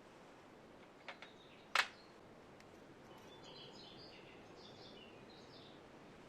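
Two light clicks, then a single sharp knock just under two seconds in, followed by faint, scattered bird chirps over a low background hiss.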